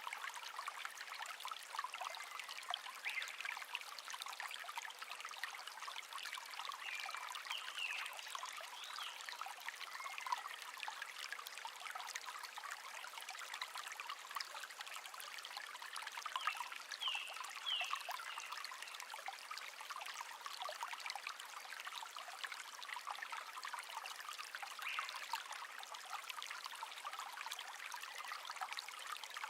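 Shallow stream babbling and trickling over stones in a steady rush, with wild birds chirping now and then above it. A cluster of short, high chirps comes near the middle.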